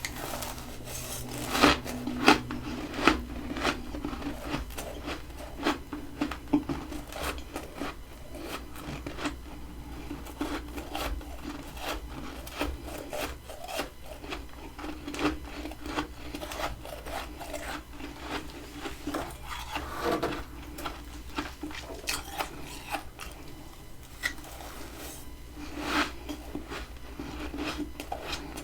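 Hard freezer frost crunching and scraping: a dense, gritty run of small crackles, with a few sharper, louder cracks about two seconds in and again near the end.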